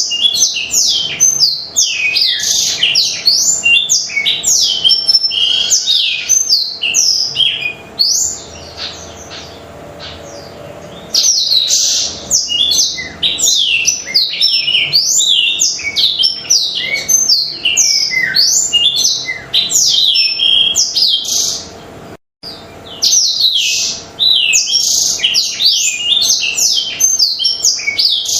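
Blackthroat (black-throated canary) singing in full, energetic song: long, fast runs of high, sliding twittering notes, broken by a pause of about three seconds about a third of the way in.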